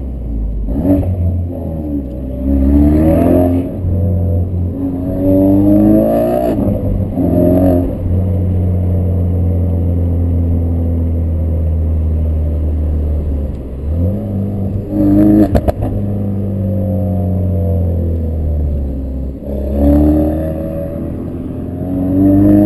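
Ford Focus RS mk3's turbocharged 2.3-litre four-cylinder through a Milltek Sport non-resonated decat exhaust, accelerating repeatedly with a rising engine note and holding steady between pulls. A short run of sharp cracks and pops from the exhaust comes about two-thirds of the way through.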